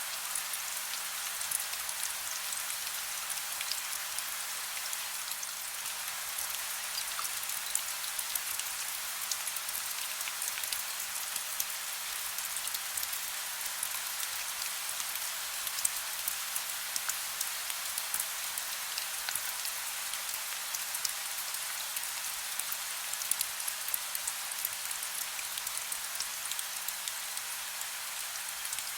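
Soft rain falling steadily: an even high hiss flecked with many small, quick drop ticks.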